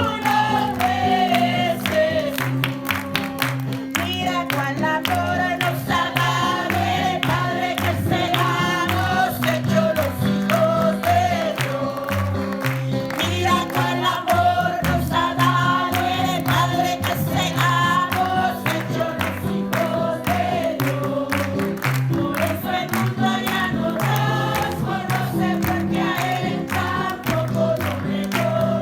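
A group singing Spanish revival choruses (coros de avivamiento) together, many voices over instrumental accompaniment with a steady beat.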